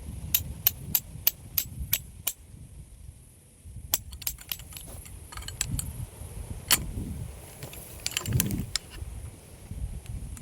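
A series of sharp clicks and light clinks of small hard objects. First comes an even run of about three a second, then scattered clusters, over a low rumble.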